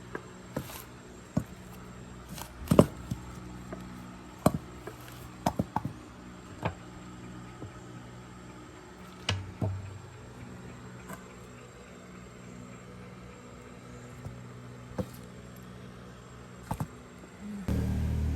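Scattered sharp metal clinks and knocks from hand tools working on a diesel engine, over a steady low hum. Near the end a louder steady low drone starts abruptly.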